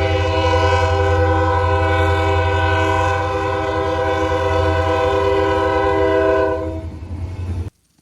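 Train horn blowing one long, steady blast of several tones over the low rumble of the passing train. The horn fades out about six and a half seconds in, and the sound cuts off abruptly near the end.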